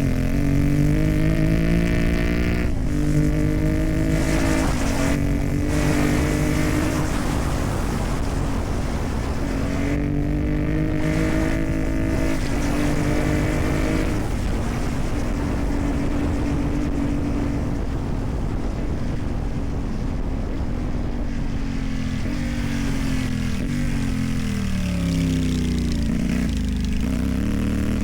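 CFMoto 450MT's parallel-twin engine through a modified exhaust, ridden on dirt tracks. The engine note climbs and drops several times as the rider goes through the gears, holds steady through a long middle stretch, then falls away as the bike slows near the end before pulling again.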